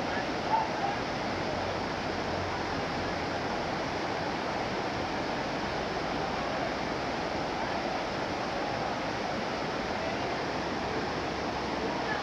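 Steady rush of water from a waterfall cascading over rocks.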